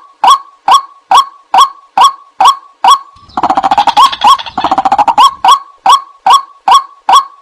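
White-breasted waterhen calling: a steady series of sharp, loud notes, about two a second, broken near the middle by about two seconds of rapid, harsher chattering.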